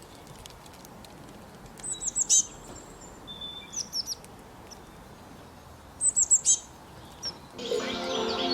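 A songbird calling in short bursts of four or five quick, high chirps, roughly every two seconds, over a faint steady outdoor hiss. Soft sustained music comes in near the end.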